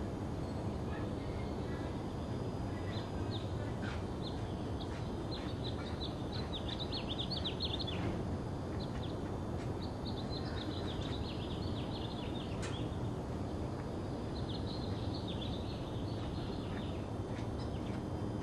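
Small bird chirping in quick, high-pitched runs, three bouts of them, over a steady low background rumble.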